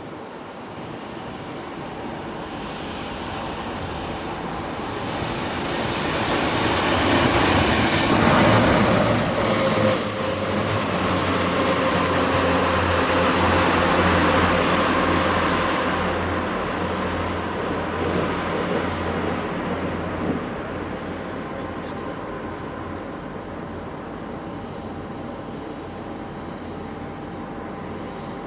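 A train passing on the line, growing louder over several seconds, running loudest for several seconds with a low steady hum, then slowly fading away. A high wheel squeal rises from about nine seconds in and dies away by around sixteen seconds.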